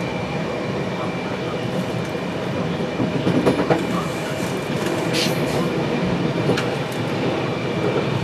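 Passenger train running, heard from inside the carriage: a steady rolling rumble with a thin steady whine, and a few sharp knocks about three and five seconds in.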